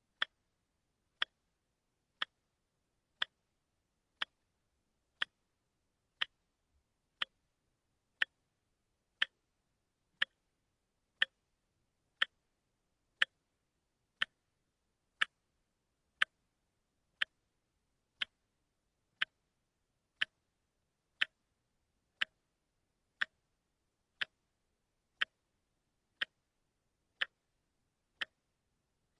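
Watch ticking steadily, one sharp, dry click every second.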